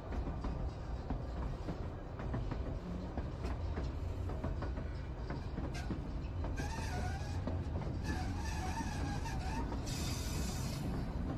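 White Pass and Yukon Route train running, heard from aboard: a steady low rumble of wheels on rail. From about six and a half seconds in there is a wavering high squeal for two or three seconds, and a short hiss comes near the end.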